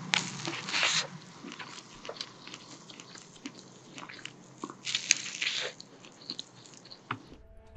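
Close-miked eating sounds: biting and chewing a McDonald's hotcake folded around a fried chicken fillet, with small wet mouth clicks. Louder bursts come near the start and again about five seconds in.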